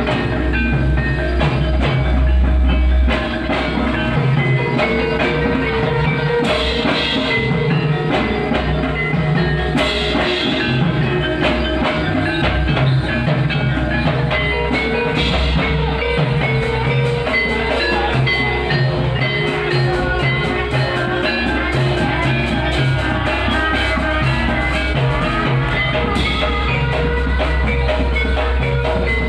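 Live ebeg accompaniment music: an ensemble of mallet-struck keyed percussion over drums. A deep bass drops out a few seconds in and comes back near the end.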